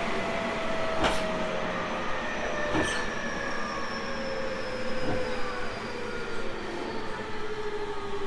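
A Tobu 30000 series electric train heard from on board while running. Its traction motor and VVVF inverter whine falls slowly in pitch as the train slows, over the rumble of the wheels, with a few clacks over rail joints.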